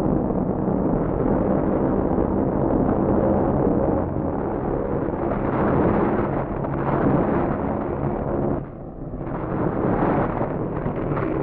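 A loud, steady rumbling din with low, even tones running through it, dipping briefly about nine seconds in.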